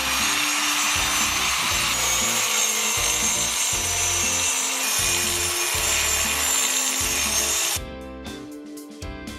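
Angle grinder with a crack-chasing blade cutting along a crack in a concrete driveway: a loud, steady grinding with a high whine, which stops abruptly about eight seconds in.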